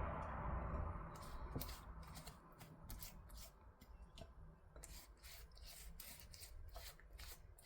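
Faint rustling and light scraping with scattered soft clicks and ticks from hands handling food and utensils while the pie is readied for the oven.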